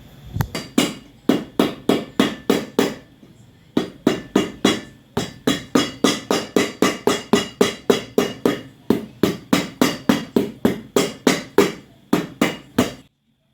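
Shoemaker's hammer striking a boot sole, a steady run of sharp taps about three a second with a couple of brief pauses, stopping shortly before the end.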